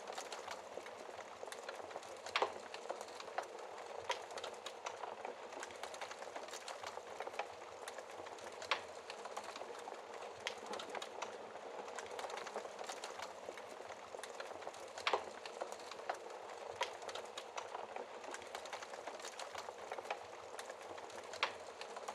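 Wood fire burning in a fireplace: a steady hiss of flames with constant small crackles, and a handful of louder snaps from the burning logs scattered through.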